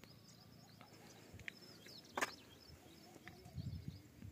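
Small birds chirping faintly over and over, with one sharp click about halfway through.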